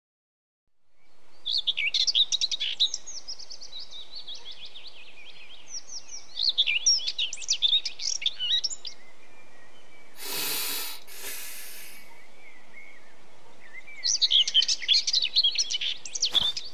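Outdoor nature ambience fading in: songbirds chirping and singing in three spells over a steady soft hiss. About ten seconds in come two short rushing noise bursts, and footsteps begin just before the end.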